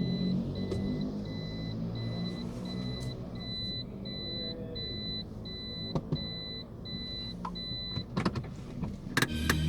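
Steady electronic beeping, about one and a half beeps a second, over a car engine running at idle. The beeping stops about eight seconds in, and a few sharp clicks follow near the end.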